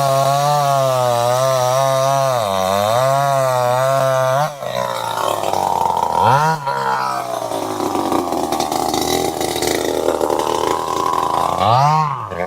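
Two-stroke chainsaw running at high revs, its pitch dipping briefly a few times as the throttle eases. About halfway through the clean engine tone turns rougher and noisier for several seconds, then dips and picks back up near the end.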